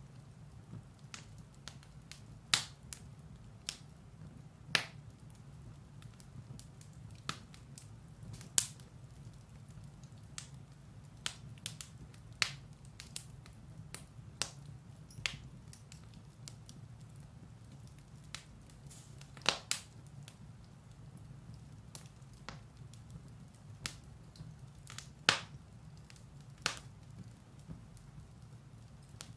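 Firewood burning in a fireplace, crackling with irregular sharp pops, some louder than others, over a low steady hum.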